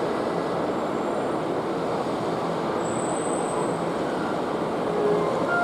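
Hankyu Kyoto Line electric train running, a steady rumble of wheels on the rails, with a faint high whine briefly about three seconds in.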